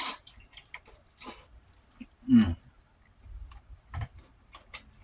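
Close-up eating sounds: chewing with many small wet mouth clicks and smacks, and a short low vocal grunt falling in pitch about two and a half seconds in.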